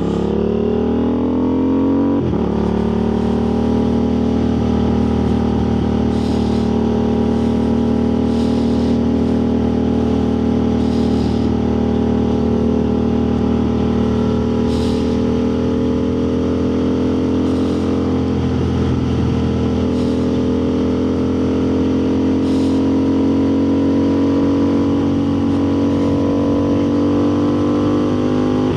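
Motorcycle engine pulling hard and rising in pitch for about the first two seconds, then running at a steady cruise, its pitch creeping slowly upward.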